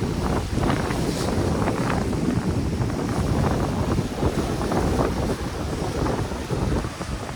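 Wind buffeting the microphone: a loud, low, rumbling rush that flickers with the gusts.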